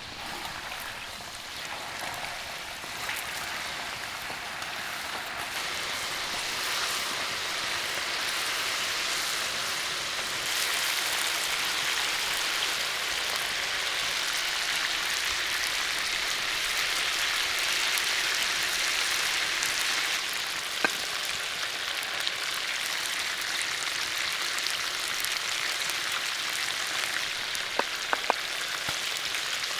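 Food sizzling in hot oil in a pan: a steady hiss that grows louder over the first ten seconds or so, with a few sharp pops about two-thirds of the way in and near the end.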